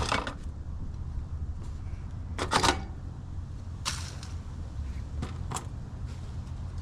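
A handful of sharp metallic clicks and knocks, the loudest about two and a half seconds in, as screws and sheet-metal parts of an outdoor air-conditioner cabinet are handled, over a steady low rumble.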